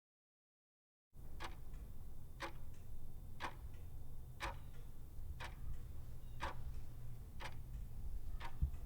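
Sharp, even ticks about once a second, like a clock, over a steady low hum; they start after about a second of dead silence.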